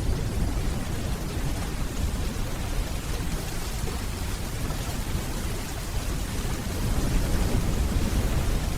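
Steady rainfall under a continuous low rumble of distant thunder, the rumble swelling a little near the end.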